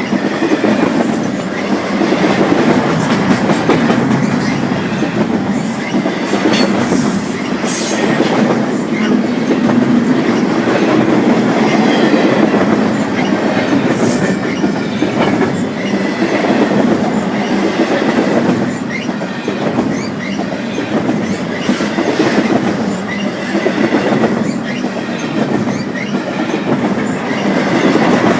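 A long train's cars rolling steadily past, their wheels clacking over the rail joints, with a few brief high wheel squeals.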